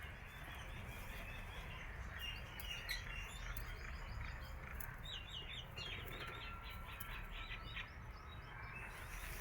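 Lovebirds chirping in short, quick calls, with a busy cluster of chirps about five to seven seconds in, over a steady low hum.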